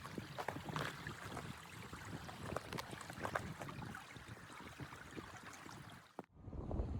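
Irregular crunches and scrapes over a steady rushing noise. A little over six seconds in, the sound cuts off abruptly and gives way to a low rumble of wind on the microphone.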